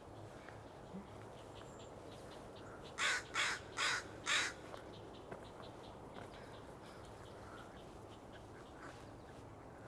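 A bird gives four harsh, raspy calls in quick succession, about half a second apart.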